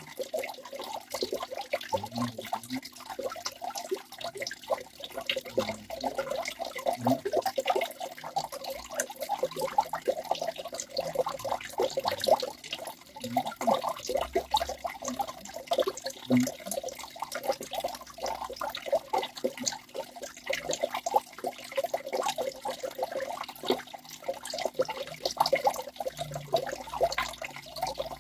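Small waterfall splashing and trickling without pause, a dense run of small splashes.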